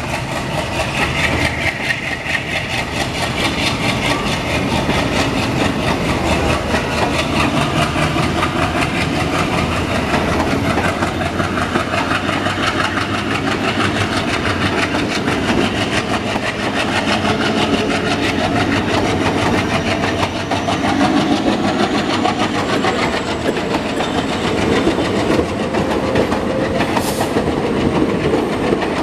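Blue ICF passenger coaches of an Indian Railways express rolling past close by, their wheels clattering steadily on the rails.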